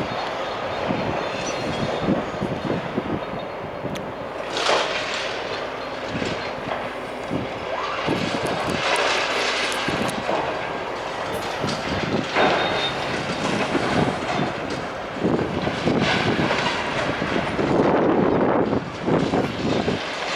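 Demolition machinery breaking up a building: a continuous clatter and crunching of masonry and metal, with several louder crashes of falling debris along the way.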